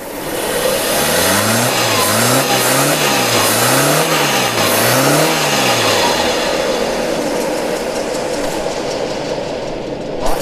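2008 Suzuki Alto engine revved up and down about five times, then running steadily. It is misfiring: its number one cylinder is not firing, and loosening the tappets has not cured it.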